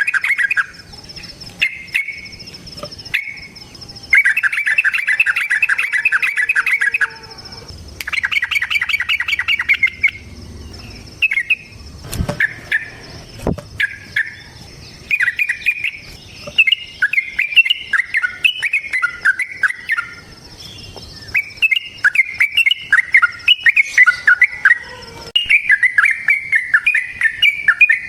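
Yellow-vented bulbul (trucukan) singing loud, rapid chattering trills in bursts of a few seconds. From about halfway it runs into a near-continuous string of bubbly, warbled phrases.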